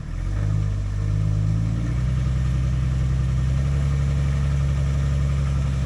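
An off-road 4x4's engine running on steady throttle, its pitch rising in the first half second, stepping up a little about two seconds in, and then holding.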